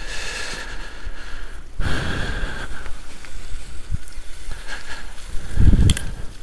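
Wind buffeting the microphone outdoors, with two strong low gusts, one about two seconds in and one near the end.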